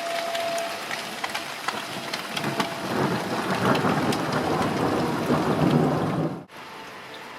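Thunderstorm: rain patters with scattered crackles, then thunder rumbles loudly from about two and a half seconds in and cuts off abruptly near the end. A faint, steady high tone is heard briefly at the start.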